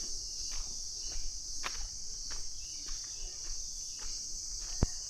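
A steady, high-pitched chorus of forest insects, with scattered footsteps on the trail and one sharp click near the end.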